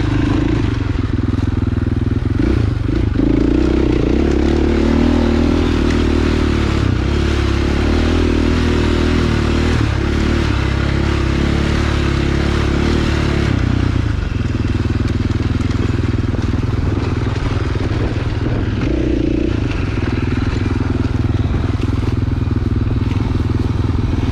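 Dirt bike engine running at fairly steady revs, its note shifting a little about halfway through.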